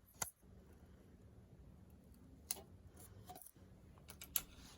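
Butcher paper being wrapped by hand around a mug: faint, scattered paper crinkles and a few small sharp clicks.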